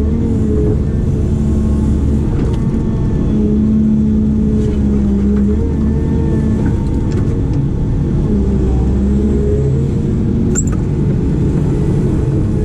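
Diesel engine of an excavator or backhoe working at steady revs, its pitch dipping and rising a little as the hydraulics take load, with a few faint knocks and one short high squeak about ten and a half seconds in.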